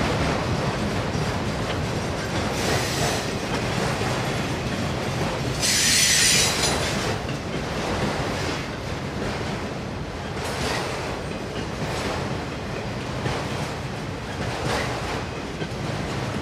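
Freight train of auto rack cars rolling past: a steady rumble of wheels on the rails, broken by brief high wheel screeches, the loudest about six seconds in and lasting over a second.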